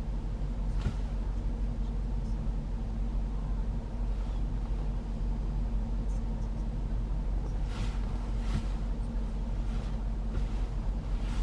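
Range Rover Sport SVR's 5.0-litre supercharged V8 idling, a steady low hum heard inside the cabin, with a few faint clicks.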